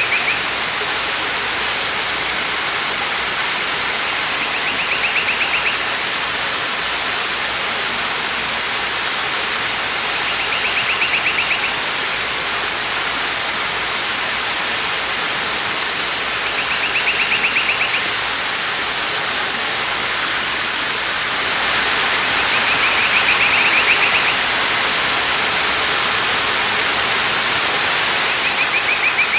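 Waterfall: steady rushing, splashing water, swelling a little about two-thirds of the way through. Over it a bird repeats a short, high, rapid trill of about a second, roughly every six seconds.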